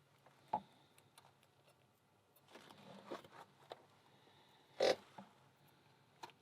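Light clicks and scrapes of small lock parts and tools being handled while an American 1100 pin tumbler padlock is re-pinned, with two sharper knocks about half a second in and near five seconds in.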